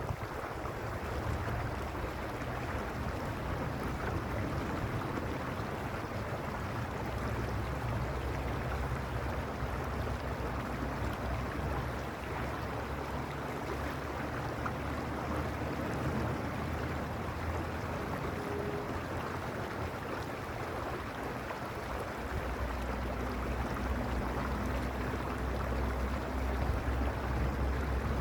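Mountain creek flowing over rocks: a steady, even rushing of water. A low rumble underneath grows stronger over the last few seconds.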